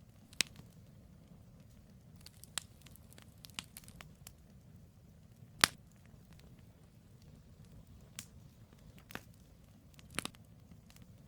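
Campfire of burning firewood crackling, with irregular sharp pops over a low steady rush of flame; the loudest pop comes about halfway through.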